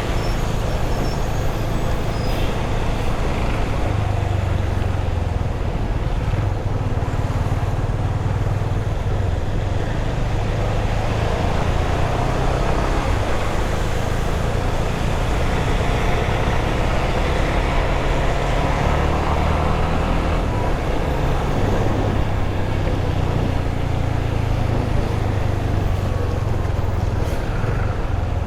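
Yamaha FZ25's single-cylinder engine running steadily under way, its pitch drifting a little as the speed changes, with wind and road noise over it.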